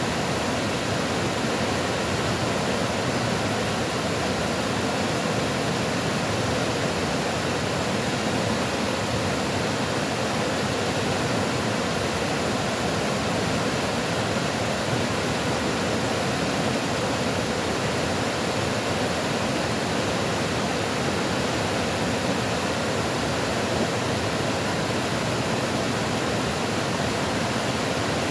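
Running water, a steady even rush with no change in level.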